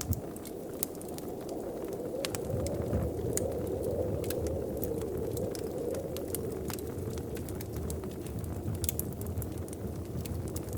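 Wood fire crackling in a fireplace, with sharp irregular pops and snaps over a low steady rumble that swells for a few seconds in the middle.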